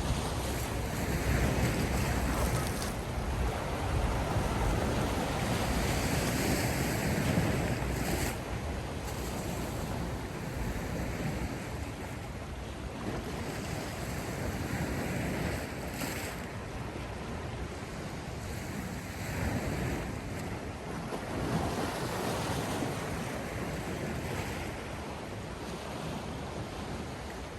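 Sea waves breaking and washing ashore, swelling and fading every few seconds, with wind buffeting the microphone.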